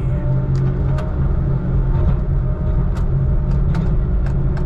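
Heavy diesel engine of a log truck running steadily, heard from inside the cab, with a few sharp clicks and rattles through it.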